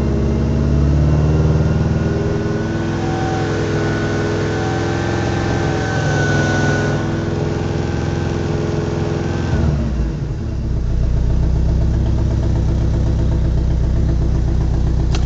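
Four-cylinder car engine held at raised revs, then dropping back to a steady idle about ten seconds in. The owner suspects a misfire that new spark plugs and a new coil pack have not cured.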